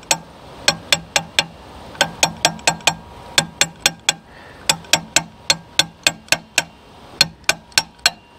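Hammer tapping the part carrying the new O-rings onto a log splitter's hydraulic cylinder rod to drive it past the hole. The taps come about four to five a second in short runs with brief pauses, each with a metallic ring.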